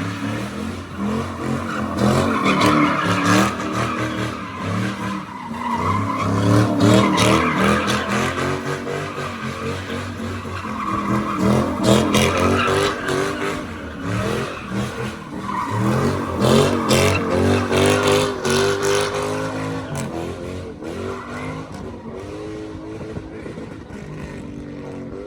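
A lifted truck's engine revving in waves as it spins donuts, its tires squealing.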